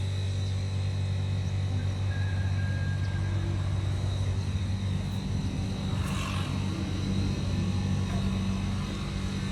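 Loader's diesel engine running steadily at idle, a constant low hum, with a brief hiss about six seconds in.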